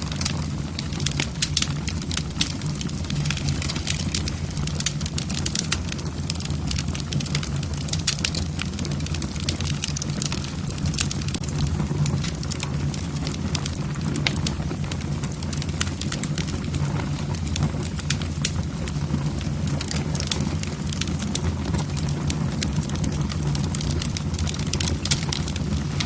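Wood fire in a fireplace, logs crackling with frequent irregular sharp pops and snaps over a steady low rumble.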